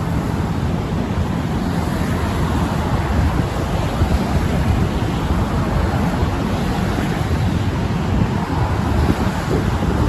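Wind in a snowstorm blowing against the microphone: a steady, loud rush with heavy low rumble.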